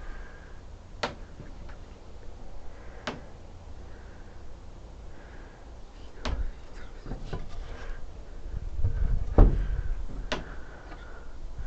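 Rough-sawn wooden framing pieces being handled and test-fitted, with five or so separate wooden knocks and clacks a couple of seconds apart and a low rumble of handling between them, loudest near the end.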